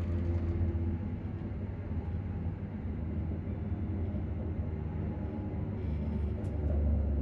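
Electric train's on-board transformer humming, a steady low hum heard inside a ScotRail Class 334 unit. It swells louder near the end.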